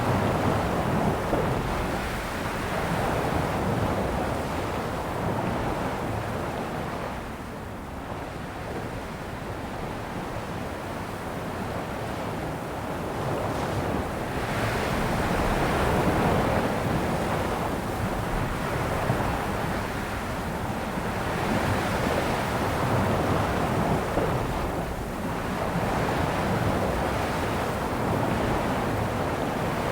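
Sea waves breaking and washing on a shore: a continuous surf wash that swells and ebbs in slow surges.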